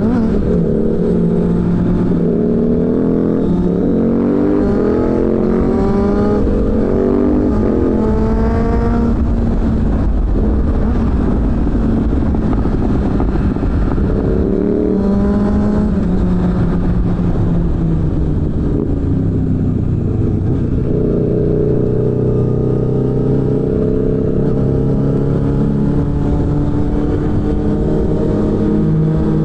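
Suzuki GSF600 Bandit's inline-four engine through a BOS aftermarket exhaust under riding load. Its pitch climbs in several rising sweeps through the gears, then falls back, pulls up again about halfway, and holds a steady note near the end.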